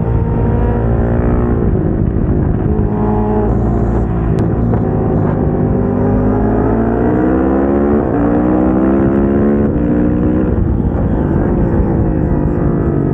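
KTM 690 SMC-R single-cylinder supermoto engine revving hard. Its pitch climbs and falls repeatedly as the bike accelerates, shifts and brakes, with a sharp drop about eight seconds in.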